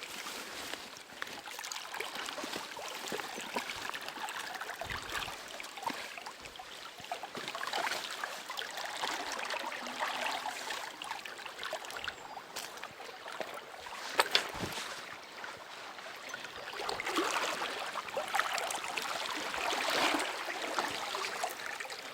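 River water rushing and babbling, swelling and easing, with a single sharp knock about two-thirds of the way through.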